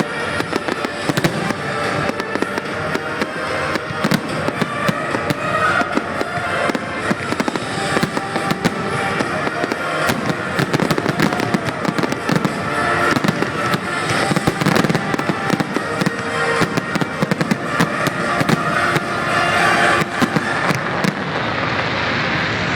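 Fireworks display going off in a dense, continuous barrage of bangs and crackles, with music playing alongside; the bangs thin out near the end.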